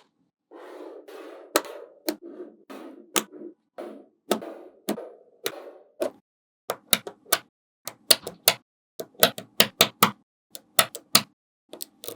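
Small magnetic balls clicking as they snap together, in a run of sharp, irregular clicks. A stretch of rattling comes before it, in the first half.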